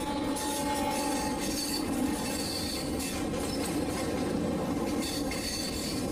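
Passenger train running onto a steel truss rail bridge, heard from an open coach doorway: a steady rumble of wheels on the track, with a faint high wheel squeal that comes and goes.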